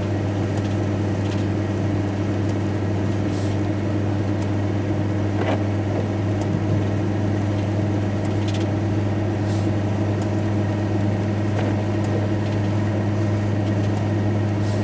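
Steady drone of a van's engine and road noise heard from inside the cab while driving, with a strong low hum and a few faint scattered ticks.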